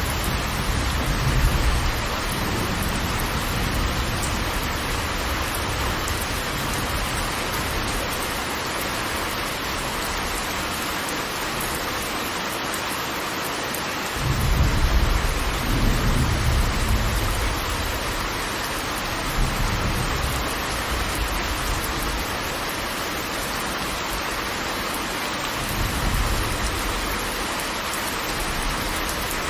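Steady roar of falling water from a great waterfall, Angel Falls. Deep rumbling swells rise out of it near the start, break in suddenly about halfway through, and come back a few times after.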